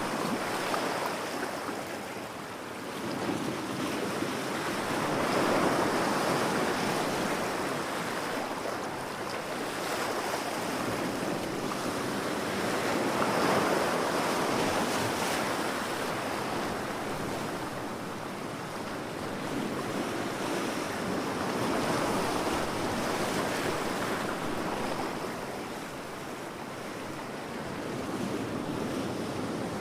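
Ocean waves breaking on a beach, the surf swelling and fading in slow surges every several seconds.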